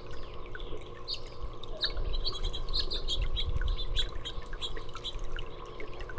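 Small songbirds chirping, many short high calls in quick succession, over a low steady hum.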